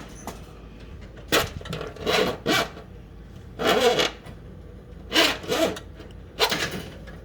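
Five irregular rubbing, scraping strokes as wires and lines are pulled through the holes of a Cessna 150's removed firewall.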